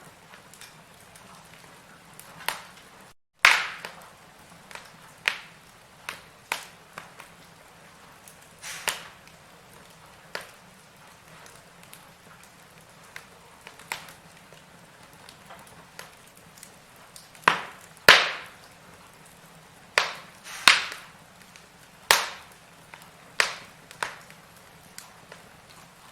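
Firewood burning, crackling with irregular sharp pops and snaps over a faint steady hiss, the pops coming every second or two and louder in a cluster in the second half. A split-second gap of silence a few seconds in.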